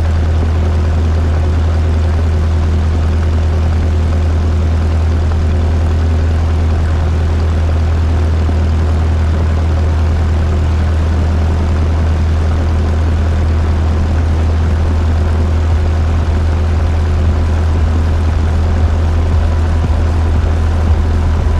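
Cessna 172 Skyhawk's piston engine and propeller running steadily at low power while holding before takeoff: a constant low drone with no change in pitch or level.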